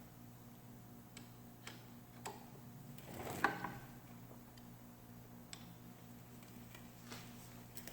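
Scattered light clicks and taps, roughly one a second, with one louder click and a short ring about three and a half seconds in, over a steady low electrical hum.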